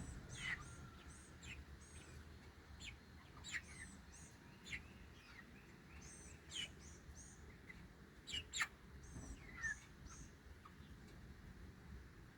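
Scattered, faint, high bird chirps, several short notes sweeping downward in pitch, the loudest pair about eight and a half seconds in.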